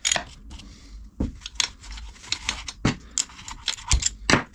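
Small metal engine parts being handled: an irregular string of sharp clicks and clinks with brief scraping between them.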